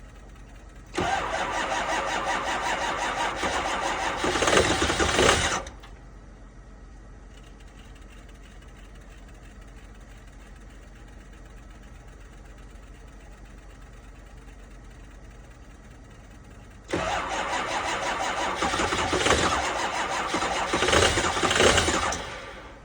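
2005 Ford 6.0L Powerstroke turbo-diesel V8 being cranked by its starter in 15°F cold without catching: two cranking attempts of about five seconds each, about eleven seconds apart. Each grows louder just before it stops. This is a cold no-start.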